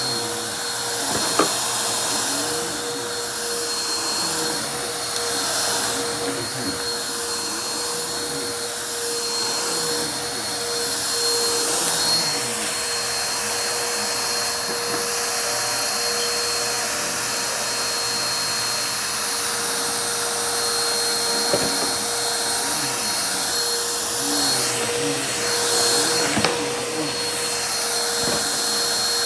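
Vacuum cleaner running steadily with a constant whine, with a few sharp clicks of crunchy debris being sucked in.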